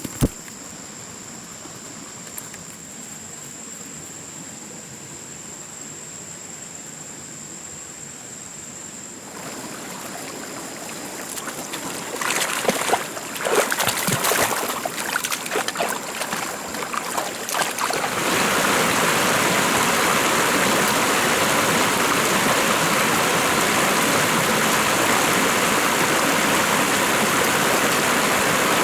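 Steady rush of flowing water, like a forest stream or small waterfall, taking over about two-thirds of the way in. Before it comes a quieter stretch with a thin high whine, then a run of scattered knocks and clicks.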